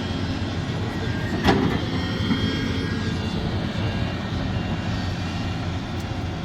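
Sumitomo SH370LHD-6 excavator's diesel engine running steadily under work, with a single sharp knock about a second and a half in.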